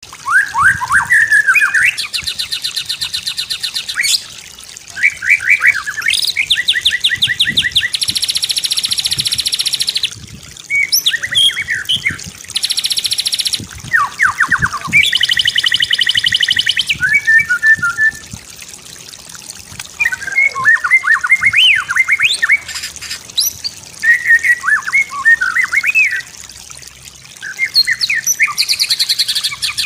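White-rumped shama (murai batu) singing a varied song. Slurred whistled phrases alternate with long, very fast rattling trills, each trill lasting one to two seconds.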